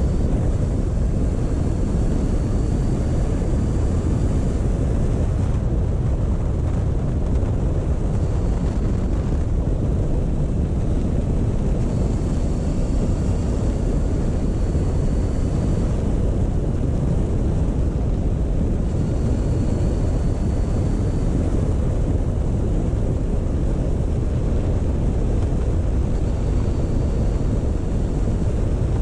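Motorcycle riding along at a steady, slow pace: engine and wind noise mixed into a dense, even low rush.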